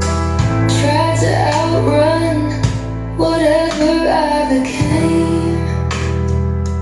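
A song played back through PSB Image B5 bookshelf speakers: a female voice singing over guitar and steady low bass notes, the voice dropping out about five seconds in while the backing carries on.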